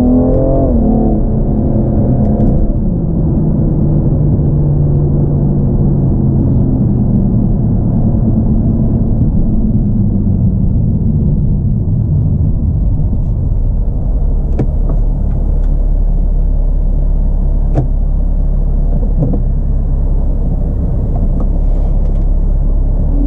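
BMW M235i's 3.0-litre turbocharged inline-six running under load, then easing off about two and a half seconds in. Its revs fall steadily for several seconds and settle into a low, steady run, with a few sharp clicks in the second half.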